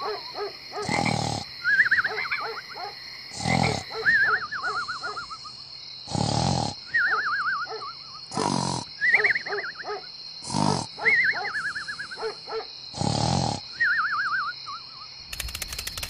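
Cartoon snoring sound effect: six rasping snores about two and a half seconds apart, each followed by a wavering whistle that falls in pitch. Near the end it gives way to a rapid run of clicks.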